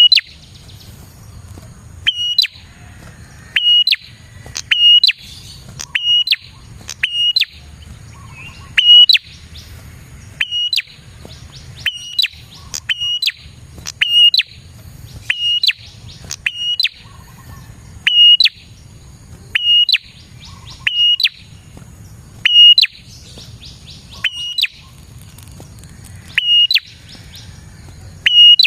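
Prenjak (prinia) calling: short, sharp, high chirps repeated about once every second or so, sometimes two close together, as used for a lure call to attract wild prenjak.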